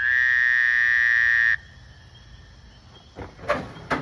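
Power drill motor spinning up with a quick rising whine, running steadily for about a second and a half, then stopping abruptly. A few sharp knocks follow near the end.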